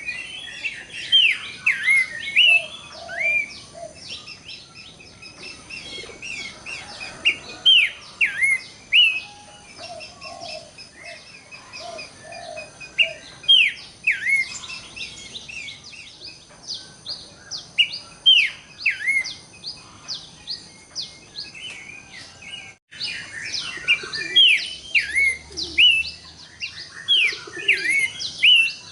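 Pelanduk semak (Horsfield's babbler) singing: repeated loud, sharp whistled notes that slur downward, in quick clusters. Fainter chirps from other birds and a few low notes sound behind it.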